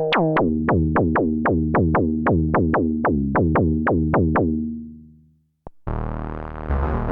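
Arturia MicroFreak synthesizer playing a fast run of plucked notes, about four or five a second, each with a quick downward pitch drop at its start. The sequence steps lower as it goes and fades out. After a brief click, a dense, buzzy new patch starts about six seconds in, with a low bass coming in under it.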